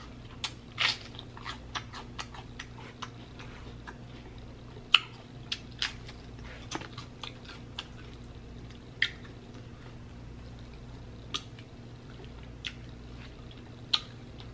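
Close-miked chewing of a mouthful of crisp iceberg lettuce: wet crunches and sharp mouth clicks, packed close together for the first few seconds and then thinning to single clicks every second or two, over a faint steady low hum.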